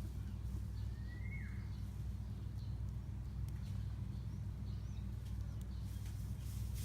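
Steady low hum under outdoor ambience, with one short bird call about a second in that rises and then drops, a few faint high chirps, and a couple of short clicks near the end.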